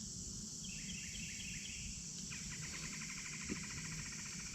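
Steady high-pitched insect chorus with a bird calling over it: a short run of repeated notes about a second in, then a fast rattling trill lasting about two seconds.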